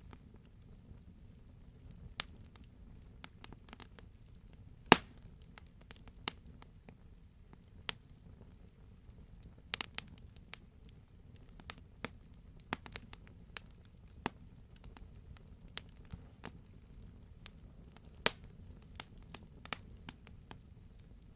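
Wood campfire crackling: a steady low rumble of the burning logs with irregular sharp pops and snaps, the loudest about five seconds in and another strong one near the end.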